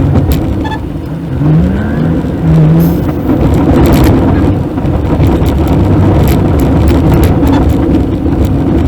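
Maruti Suzuki WagonR on the move, its engine and road noise heard from inside the cabin, with scattered knocks and rattles. About a second and a half in there is a short rising tone, followed by a brief steady one.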